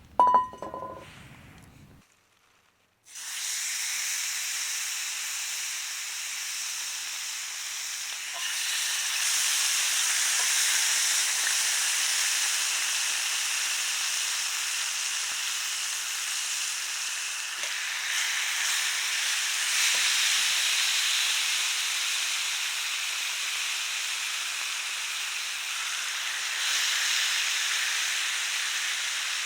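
Pork sizzling on a grill over a campfire: a steady hiss that starts suddenly about three seconds in, after a brief sharp sound and a moment of silence.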